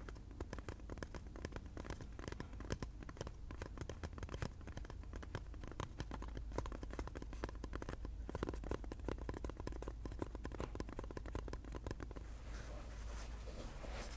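Fast ASMR tapping on a hard object, many quick light taps a second, giving way to a scratchy rustle near the end.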